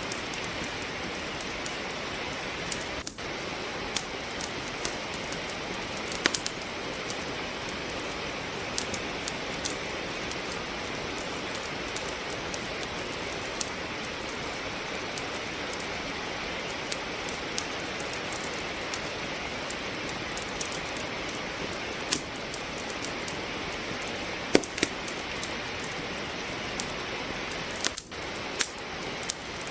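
Steady rain hiss, overlaid with irregular sharp pops and crackles of wood logs burning in a fireplace; one crackle near the end of the third quarter stands out loudest.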